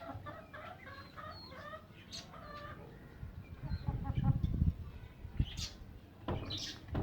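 Chickens clucking in short, soft calls, with a few high chick peeps among them. A low rumbling handling noise comes about four seconds in, and a sharp knock near the end.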